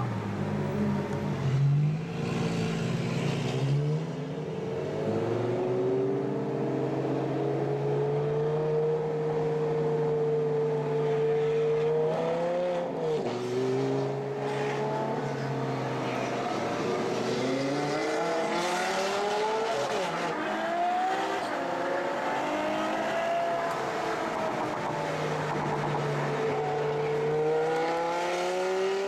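Ferrari FF's V12 engine under way, holding a steady note for several seconds, then revs climbing and dropping several times with gear changes, and climbing again near the end.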